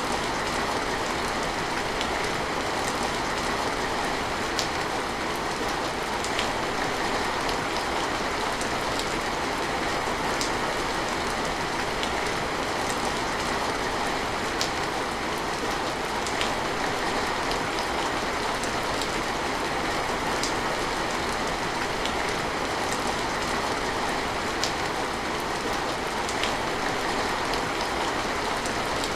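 Steady heavy rain falling, a dense even hiss with scattered sharper drop ticks from drops striking a surface.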